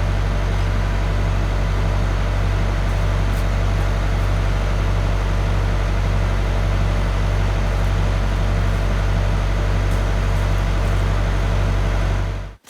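Engine of a Volvo LM225 backloader running steadily with a deep, even drone, cutting off suddenly near the end.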